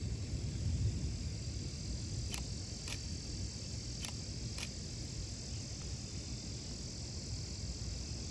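Steady chorus of night insects, such as crickets, chirring, over a low rumble with no clear pitch, and four faint clicks about halfway through.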